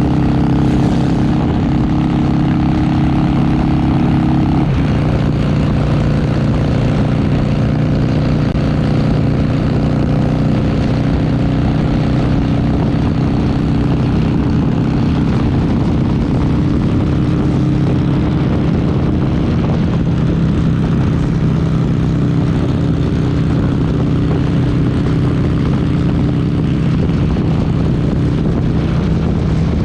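Harley-Davidson Sportster 883's air-cooled V-twin engine running at a steady cruise. Its note changes about four and a half seconds in, then holds an even pitch.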